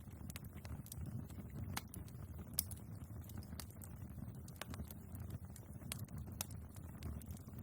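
Wood fire crackling in a fireplace: scattered sharp pops and ticks over a soft low rumble, with one louder pop about two and a half seconds in.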